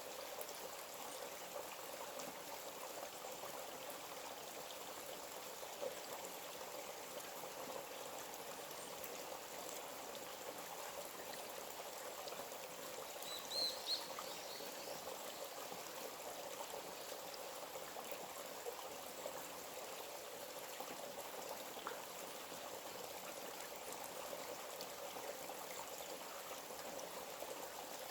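A small forest stream running steadily, its water trickling over stones. About halfway through, a bird gives two short high chirps.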